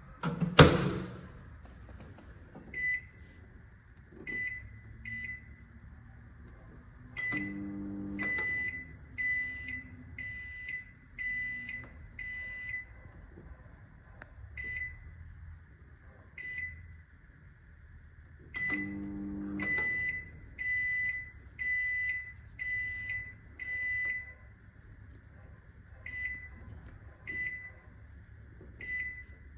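Control panel of a COMFEE' 700 W digital microwave oven beeping: many short high beeps, about one a second and in groups, with a longer, lower tone twice. A loud knock comes just after the start.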